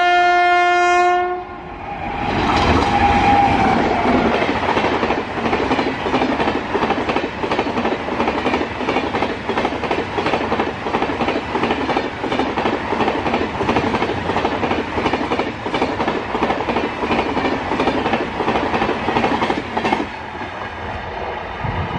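WAP-7 electric locomotive's horn sounding one steady chord that cuts off about a second in. Then the passing express train's wheels clatter rapidly over the rail joints, stopping abruptly near the end.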